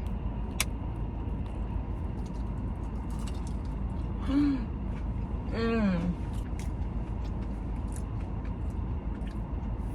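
A woman eating makes two short appreciative "mm" sounds, the second longer and falling in pitch, over a steady low background rumble, with a sharp click near the start and a few faint clicks.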